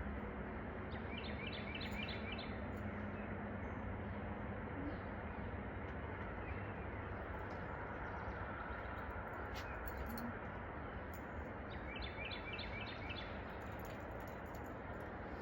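A bird calling in two short runs of quick repeated chirps, one about a second in and one near the end, over steady background noise.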